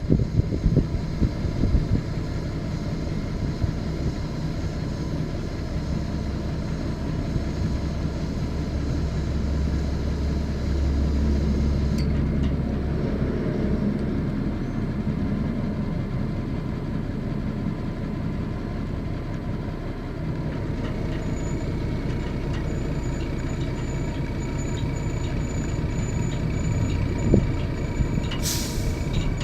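Ford boom truck's engine running steadily, a little louder for a few seconds about ten seconds in. A faint high whine joins about two-thirds of the way through, and a short sharp hiss sounds near the end.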